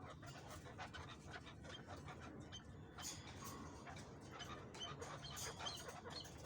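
Chukar partridges pecking at green fodder: irregular light taps and clicks, with a few short high chirps in the second half.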